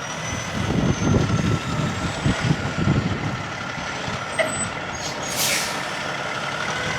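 Semi-truck engine running as the truck manoeuvres, with a steady whine over an uneven rumble, and a short hiss of air about five and a half seconds in.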